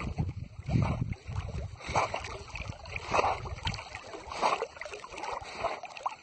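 Water splashing and sloshing in surges about once a second, with wind rumbling on the microphone.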